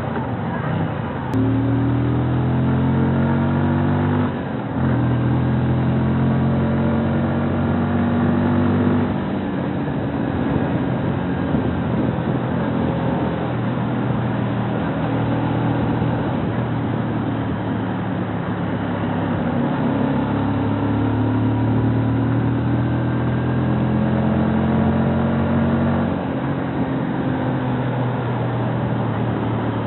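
Kawasaki Rouser NS125 FI's single-cylinder engine under way, revving up as the motorcycle accelerates, with a short dip about four seconds in as it shifts gear. It eases off after about nine seconds and pulls up in pitch again in the second half, over a steady hiss of road and wind noise.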